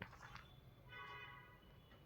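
Pet budgerigar chirping faintly: a couple of quick chirps at the start, then a longer buzzy warbling note about a second in.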